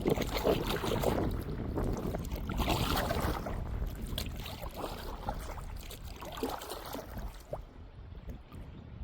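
Water splashing and lapping around a kayak in irregular surges, easing off to quieter lapping with a few small clicks for the last second or so.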